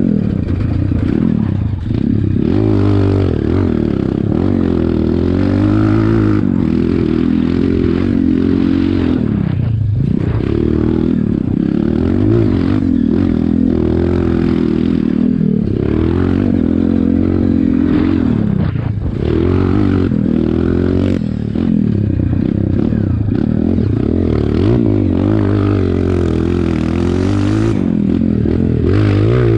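Dirt bike engine being ridden hard. The revs climb and fall over and over as the throttle is opened and shut, with several sharp drops in revs along the way.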